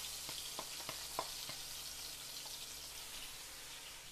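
Ground rica-rica spice paste sizzling as it is sautéed in oil in a pan. A spatula stirring it clicks against the pan a few times in the first second and a half.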